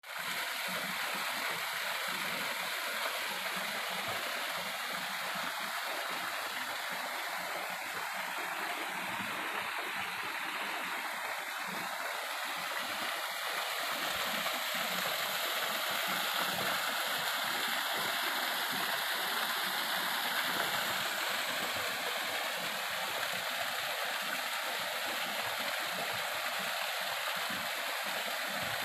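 Waterfall rushing steadily, water pouring and splashing without pause.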